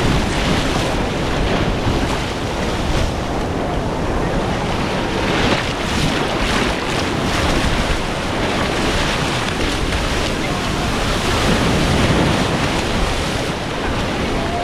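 Sea surf washing in continuously, with wind buffeting the microphone.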